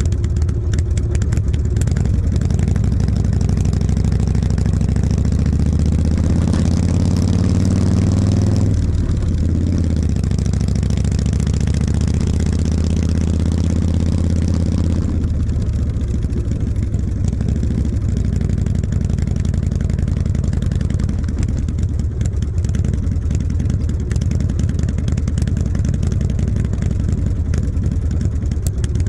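Harley-Davidson V-twin motorcycle engine under way. It pulls up through the revs, drops at a gear change about nine seconds in, pulls up again, then settles to a lower steady run from about fifteen seconds.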